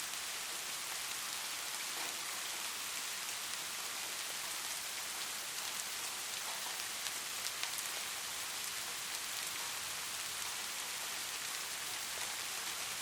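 Light rain falling steadily, an even hiss with scattered soft drop ticks.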